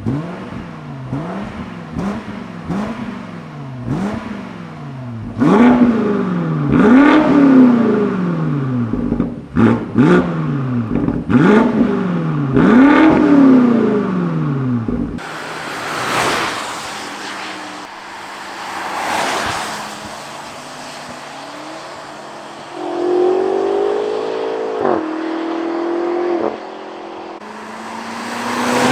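BMW X5M/X6M twin-turbo V8 through a valved sport exhaust, free-revving in quick repeated blips, small at first and then harder and louder, each rev rising and dropping sharply. About halfway through, the SUV is heard driving past, with tyre and wind rush swelling as it goes by, and then accelerating.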